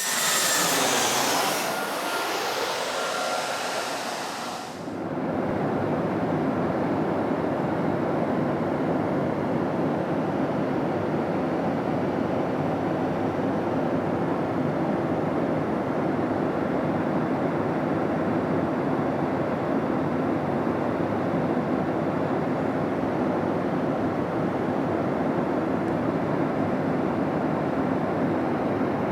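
Steady cabin roar of a Boeing 737-700 in flight, heard from inside the passenger cabin. It opens with a brighter hiss and falling tones that fade out about five seconds in, after which the even roar carries on unchanged.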